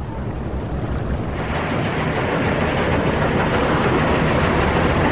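Ship's engine and propeller noise: a steady low hum under a loud rushing noise that swells about a second and a half in.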